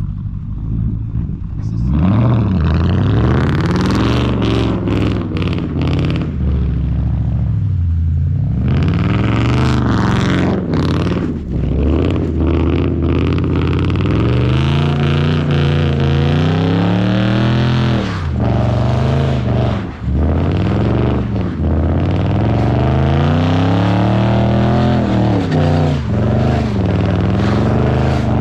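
A car engine revving hard again and again, its pitch climbing and dropping every couple of seconds, as the car is drifted through snow.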